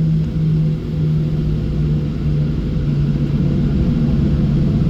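Boeing 737-700's CFM56-7B jet engines at takeoff power during the takeoff roll, heard inside the cabin: a loud, steady rumble with a low drone, and a second slightly higher tone rising a little about halfway through.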